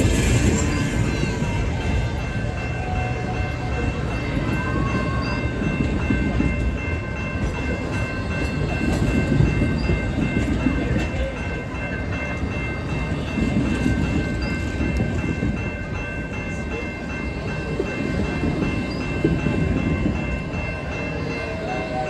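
The CPKC Holiday Train rolling past, its wheels rumbling steadily on the rails and swelling and easing every few seconds. Several steady high tones are held above the rumble throughout.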